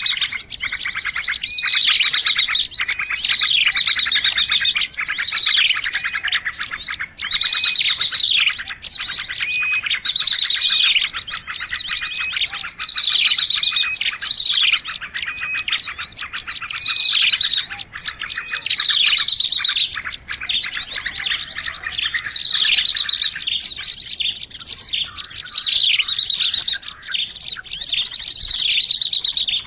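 A dense chorus of many small birds chirping and twittering, with overlapping calls: a fast high trill underneath and short down-slurred chirps repeated several times a second. This is a bird-lure (pikat) recording meant to draw small birds in.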